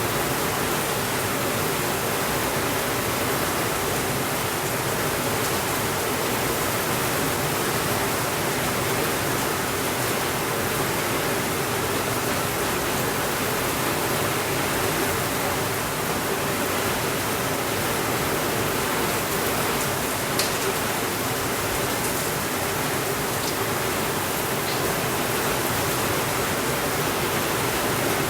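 Steady rainfall making an even hiss, with a few faint pops from a crackling fireplace, the sharpest about twenty seconds in.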